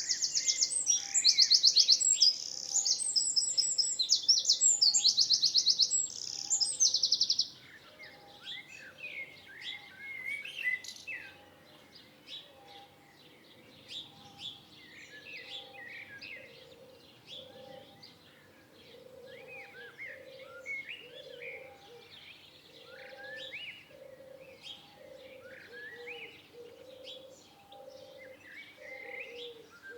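Several birds singing and calling. A loud, fast, high trilling song fills the first seven seconds or so, then gives way to quieter assorted chirps, under a low call repeated about once a second that grows stronger in the second half.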